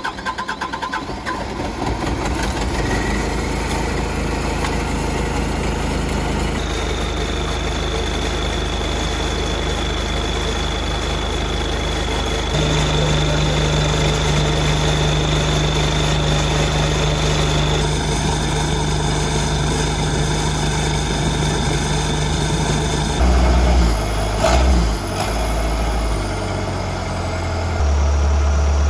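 Hitachi excavator's diesel engine running just after firing up, after being buried in a debris flow and refilled with fresh oil, hydraulic fluid and fuel. Its speed steps up and down several times, with a steady high whine through the middle and a few clanks about three-quarters of the way in.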